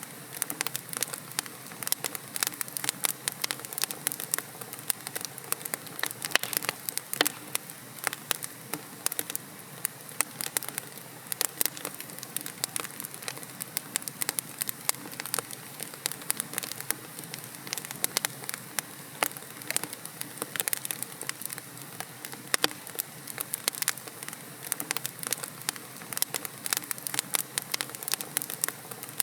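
Wood logs burning in a fireplace: a steady soft hiss of flame under many irregular sharp crackles and pops.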